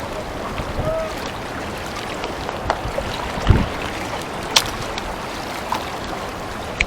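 Steady rush of water and wind, broken by a few sharp clicks and knocks.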